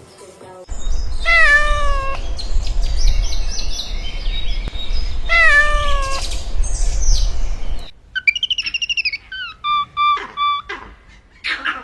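A cat meowing twice, each meow drawn out and falling slightly in pitch, over a low rumble. About eight seconds in, the sound cuts abruptly to short, high, warbling bird chirps.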